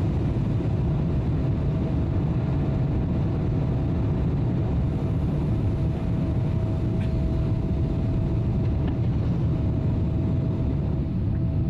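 Steady cabin noise inside a Boeing 777-300 airliner: an even, deep rumble of engines and airflow with a thin steady hum above it.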